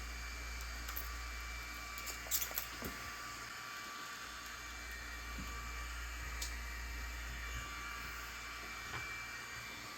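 Small sharp clicks of hand tools and parts being handled during a smartphone teardown: a quick cluster of three or four about two and a half seconds in and a single click about six and a half seconds in, over a steady background hiss and low hum.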